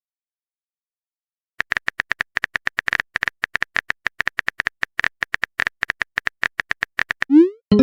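Phone keyboard typing sound effect: a rapid run of light clicks, about eight a second, starting about one and a half seconds in. Near the end it gives way to the loud rising swoop and chime of a message alert.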